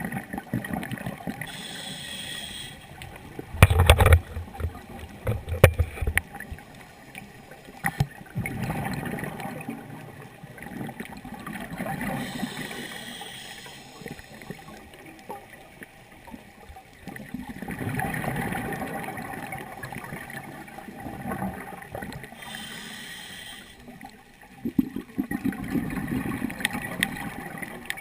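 Scuba regulator breathing heard underwater: a short hiss of inhalation, then a longer gurgling rush of exhaled bubbles, repeating slowly about every ten seconds. The bubbles are loudest about four seconds in.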